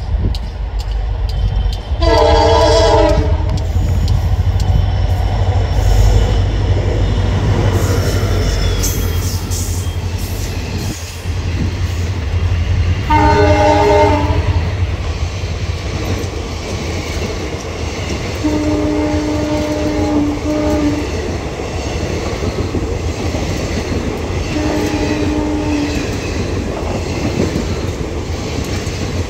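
WDG4 (EMD GT46MAC) diesel locomotive coming past with its multi-tone horn blowing. Long blasts come about two seconds in and again near thirteen seconds, and two more steady tones follow later. Under the horn is the continuous low rumble of the locomotive and then of the passenger coaches rolling past, with a clickety-clack from the wheels.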